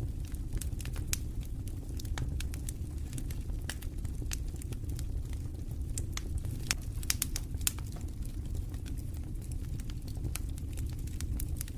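Campfire burning, with irregular sharp crackles and pops of the wood over a steady low rumble of wind and fire.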